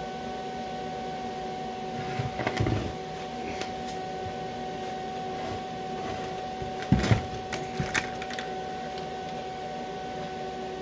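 A steady machine hum holding a few fixed pitches, with scattered knocks and clatters of objects being handled, the loudest about two and a half and seven seconds in.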